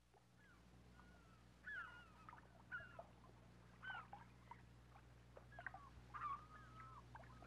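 Birds calling faintly: scattered short, mostly falling cries that come more often toward the end, the last one held longer, over a steady low hum.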